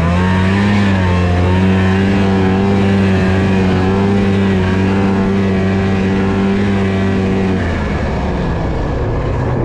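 Snowmobile engine running under steady throttle, its pitch rising a little in the first second and then holding. About three-quarters of the way through the throttle is let off and the engine note drops.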